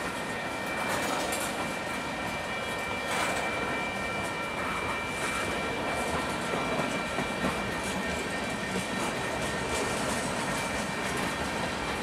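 Freight cars rolling slowly past on the rails: steady wheel-and-rail noise with scattered clanks, and a thin high whine held throughout.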